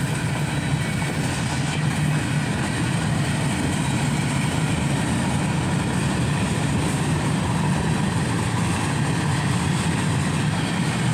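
Cars of a mixed freight train rolling past at speed, a steady low rumble of steel wheels on rail with no break or change in level.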